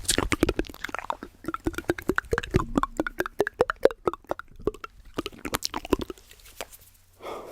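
ASMR mouth sounds: a rapid, dense run of wet clicks and pops that thins out about six seconds in.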